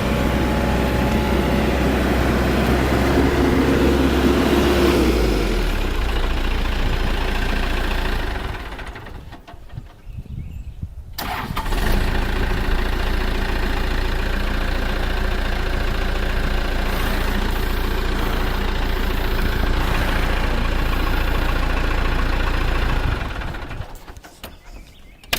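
Cat 416C backhoe loader's turbocharged diesel engine running, dropping in pitch about five seconds in, then dying away; about three seconds later it is started again and runs steadily, winding down near the end.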